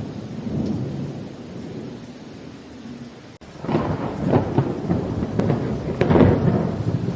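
Thunder rumbling low over steady rain. Past the halfway mark, after a split-second gap, a louder crackling peal of thunder breaks and swells, strongest near the end.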